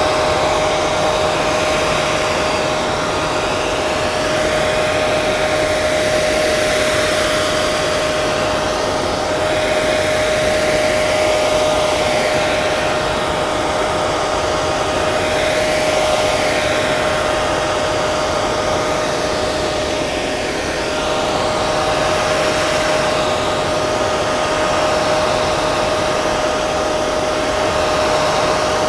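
Hair dryer running steadily: an even rush of air over a steady whine, with the tone of the rush shifting slowly.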